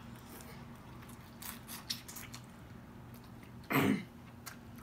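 Close-up chewing of a bite of chicken: soft, wet mouth clicks and smacks, with a short hummed "mm" just before the end.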